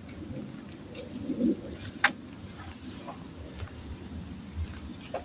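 Steady high-pitched insect chorus of crickets chirring outdoors, with a sharp click about two seconds in.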